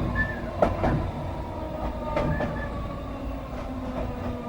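Merseyrail Class 508 electric multiple unit running on the line, heard from inside the driving cab: a steady rumble with a few sharp clicks from the wheels in the first second or so.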